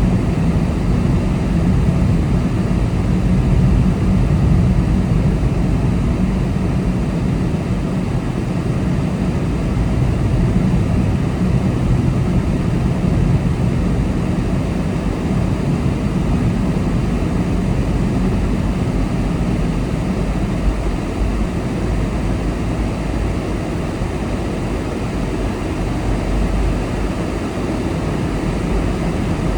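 Car driving at road speed: a steady drone of engine and tyre noise, heaviest in the low end, with no sudden events.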